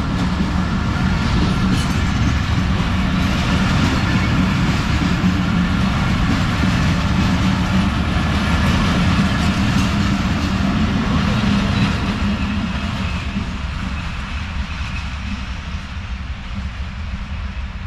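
Bangladesh Railway diesel-hauled passenger train running past: a steady, loud rumble and rattle of the engine and wheels on the rails that slowly fades over the last several seconds.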